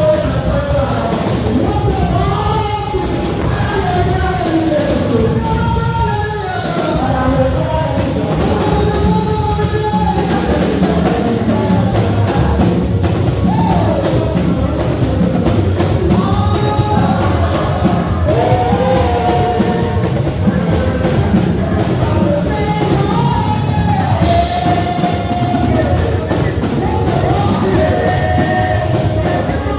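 Live church praise music: voices singing over a band with drum kit and bass, played loud and without a break.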